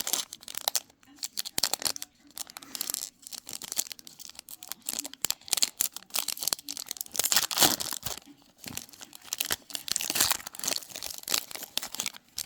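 Foil trading-card pack wrappers crinkling and tearing, with cards rustling as they are handled, in irregular bursts.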